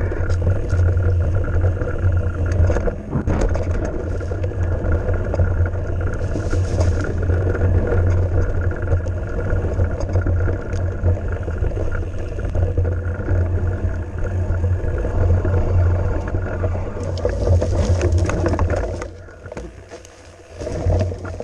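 Wind buffeting the microphone of a camera on a moving mountain bike, a steady low rumble, with scattered rattles and knocks from the bike over the trail. The rumble dies down abruptly for a couple of seconds near the end, then picks up again.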